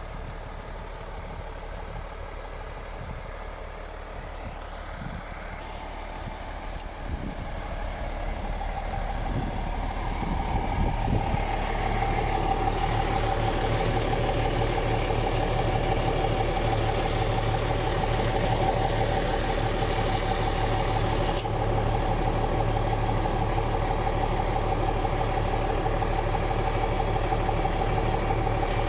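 MAN TGX 18.500 truck's diesel engine idling with a steady drone. It grows louder over several seconds from about a quarter of the way in, then holds steady.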